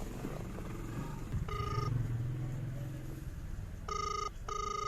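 Telephone ringback tone through a phone's loudspeaker: one short burst, then a double ring of two short beeps near the end, over a low hum.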